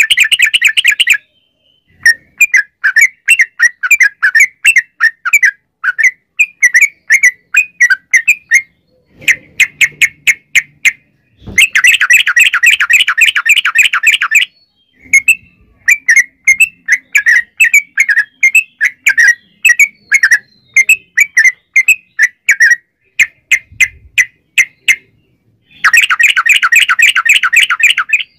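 Yellow-vented bulbul (trucukan) singing loudly: long, very rapid rattling trills of repeated notes (the 'ropel') alternate with shorter phrases of quick chattering notes. Three long trills come at the start, about halfway through and near the end.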